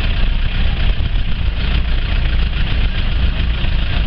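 Volkswagen Passat 35i's engine running steadily at a crawl, heard from inside the cabin as a constant low drone.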